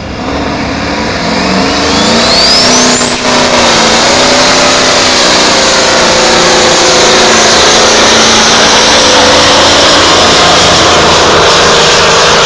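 Modified semi truck's diesel engine building to full power over about two seconds, then held loud and steady during a pull. A thin, high whistle rises in pitch over the first three seconds.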